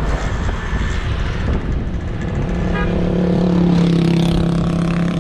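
Motorbike engine running with a steady hum over a low rumble. The hum fades for the first couple of seconds and comes back strongly about halfway through.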